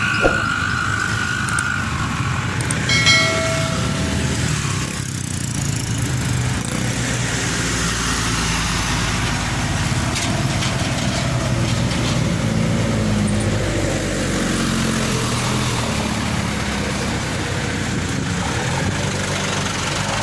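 Truck engine running on the road, with a steady drone of engine and road noise. A short, tonal horn-like blast sounds about three seconds in.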